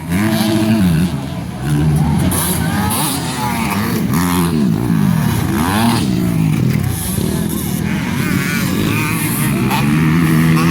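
Several motocross bikes revving hard, their engine pitch climbing and falling again and again as the riders work the throttle over the track.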